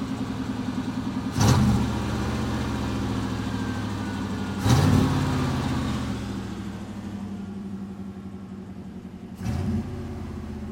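1988 Chevrolet truck's V8 idling through a MagnaFlow performance exhaust. The throttle is blipped three times, about a second and a half in, about five seconds in and near the end, and each time the revs jump and then settle back to idle.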